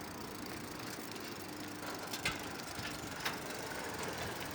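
Bicycle coasting with its freewheel ratcheting, over a low rolling hiss, with a couple of sharp clicks.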